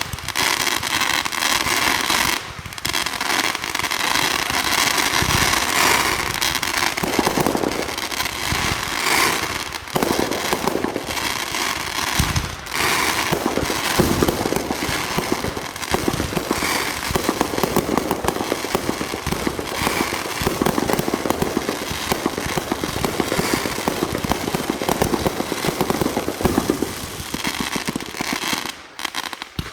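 Fireworks going off as a dense, continuous barrage of rapid pops for nearly half a minute, thinning out near the end.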